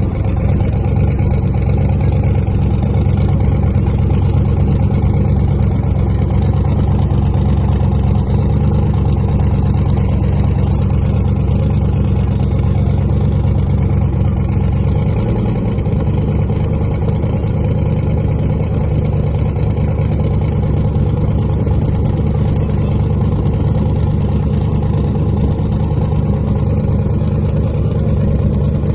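A car engine running steadily with a low drone, its pitch shifting slightly about halfway through, as heard from a moving vehicle.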